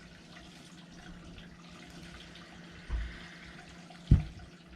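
Handling sounds on a workbench: a soft bump about three seconds in and then a short, sharp knock a second later, over a faint steady hum.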